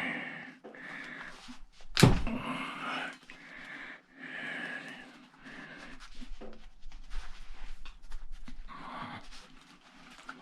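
Hand work on the copper winding of an old battery charger's transformer: a single sharp knock about two seconds in, then scraping and rustling, with small clicks and taps of handling later on.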